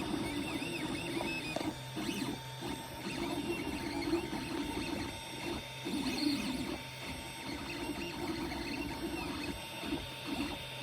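Creality Ender 3 Pro 3D printer running, making the weird noises it is filmed for: a low whirring that starts and stops in short stretches as it moves, with small arching whine-like chirps higher up and faint steady tones behind.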